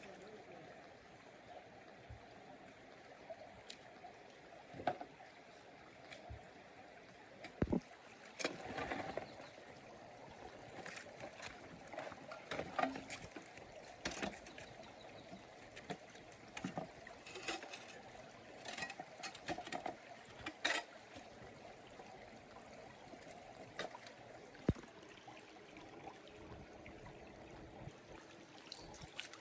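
Flowing stream water, with irregular splashes and knocks that crowd together through the middle.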